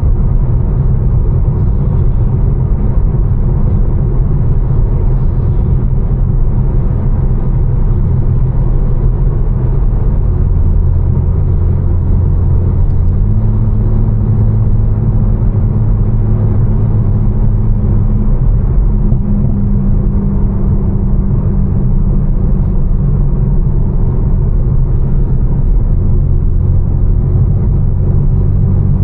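Tuned BMW M4's twin-turbo inline-six, fitted with a Fi single-midpipe exhaust and catless downpipes, droning steadily while cruising with road noise. Its low note shifts pitch a few times, about a third, two thirds and near the end of the way through.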